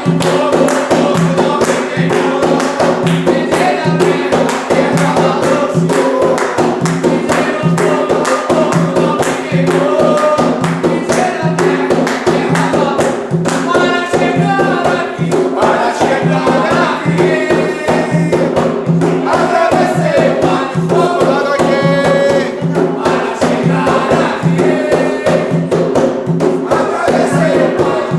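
Umbanda ponto (devotional chant) sung by a group of voices over fast, dense hand percussion, with steady low sustained tones underneath.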